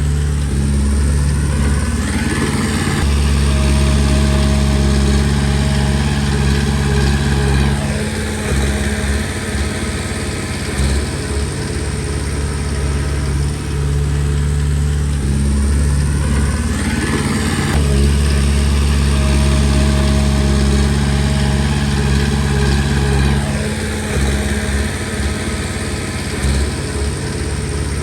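Komatsu D20P bulldozer's diesel engine running, in two repeated work cycles: it rises in pitch about two seconds in, holds heavy for several seconds, then drops back near eight seconds, and does the same again from about seventeen seconds, dropping back near twenty-three.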